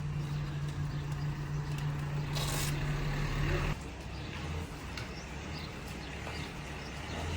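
A vehicle engine running steadily at idle, with a brief hiss of air about two and a half seconds in. The engine's note shifts lower a little past the halfway point.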